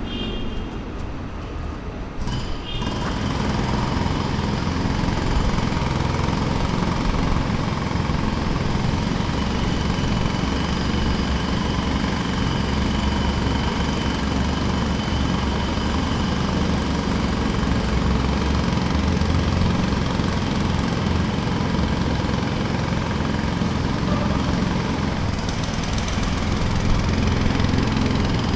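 Jackhammer hammering steadily in a rapid, continuous rattle. It gets louder and fuller about three seconds in.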